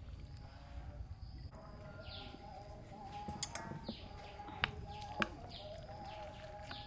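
Birds chirping, a short falling call repeated every half second or so, with three sharp clicks near the middle.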